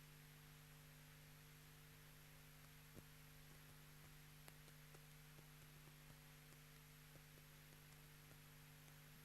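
Near silence: a faint steady electrical hum under hiss, with a few faint ticks.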